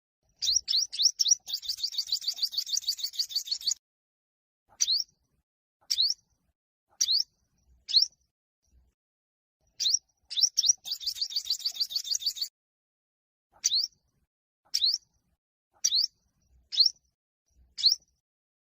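Olive-backed (yellow-bellied) sunbird singing: sharp, high single notes at about one a second, broken twice by a fast trill lasting two to three seconds.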